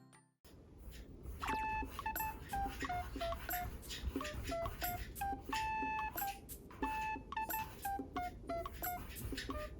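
A quick run of short electronic beeps stepping between a few pitches, like a tune played on beep tones, over a steady low hiss.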